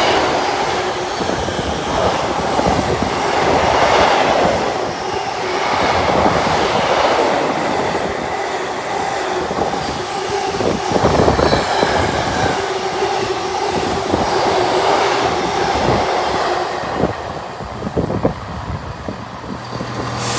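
The container wagons of a freight train rolling past, their wheels clattering over the rail joints in a continuous rumble. Near the end the noise drops as the train thins out, leaving a few separate wheel clicks.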